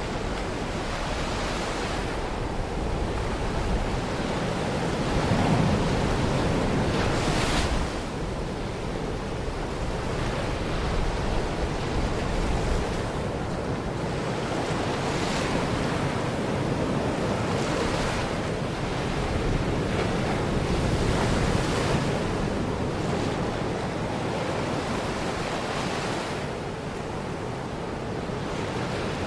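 Baltic Sea waves washing onto a beach, surf rolling in and breaking every few seconds over a steady rush, with some wind on the microphone.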